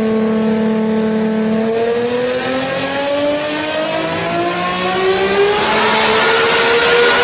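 A car's engine and exhaust accelerating hard: the note holds steady for about two seconds, then climbs gradually in pitch. A high thin whistle rises over it in the second half.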